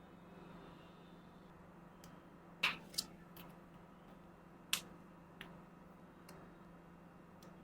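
Sharp clicks and taps of small hard parts being handled during an unboxing: the loudest pair comes about two and a half seconds in, another follows near five seconds, and fainter ticks come later, over a faint steady hum.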